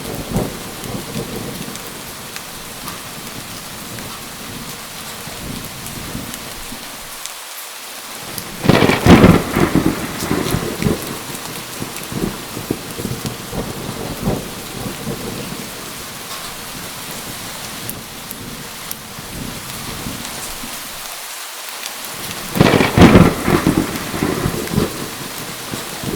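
Steady heavy rain with two loud thunderclaps, about nine seconds in and again near the end. Each clap cracks sharply and then rumbles away over a couple of seconds.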